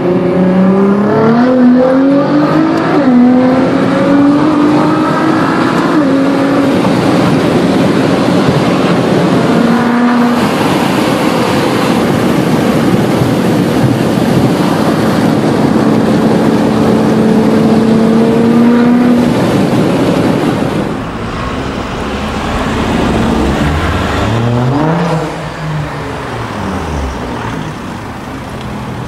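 Modified Nissan GT-R's twin-turbo V6 accelerating hard, heard from inside the car: the engine note climbs, drops at two gear changes in the first few seconds, then holds a long high-speed pull under heavy wind and road noise. Near the end the sound changes to a GT-R's engine revving up and down a few times.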